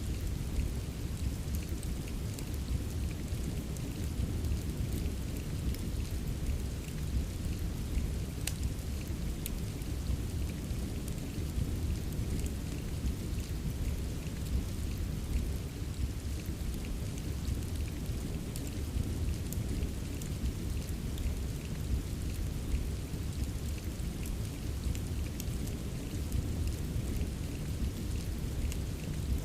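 Steady rain mixed with a crackling fireplace: a dense, even hiss over a deep, steady rumble, with scattered sharp crackles and ticks. One louder crack comes about eight seconds in.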